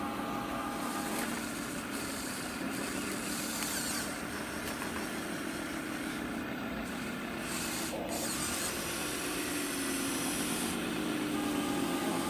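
Radio-controlled 1/14-scale trucks running on dirt with a steady mechanical hum, and a single sharp click about eight seconds in.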